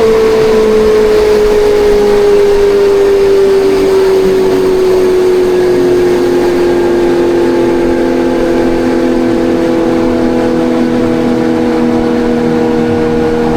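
Kawasaki Ninja 1100SX inline-four engine running under way, heard from the rider's seat. The engine note eases down slowly over the first half and then holds steady, over a constant rush of wind and road noise.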